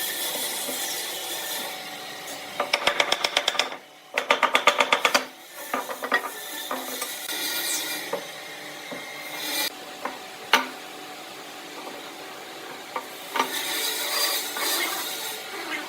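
Tools working wood: two short runs of fast, even rasping strokes a few seconds in, then scattered knocks and scraping on wood.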